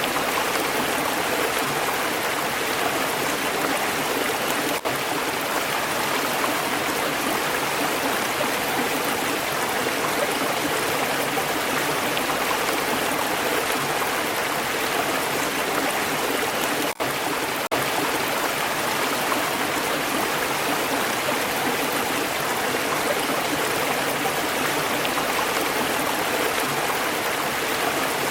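Flowing stream water, a steady unbroken rush of running water. The sound drops out for an instant twice, about five and seventeen seconds in.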